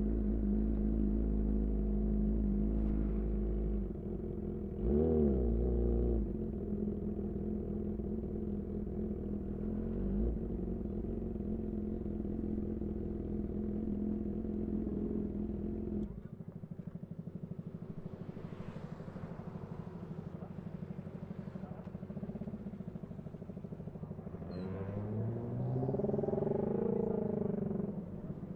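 2014 Yamaha R6 inline-four engine, breathing through a Leovince header and R9 titanium muffler, running at steady low revs with a short throttle blip about five seconds in. The sound drops suddenly about sixteen seconds in, and a rev rises and falls near the end.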